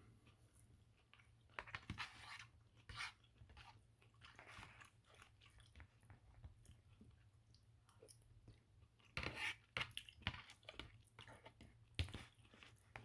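A person chewing food close to the microphone, with soft crunches and clicks coming in scattered clusters between quieter stretches, the sharpest click near the end.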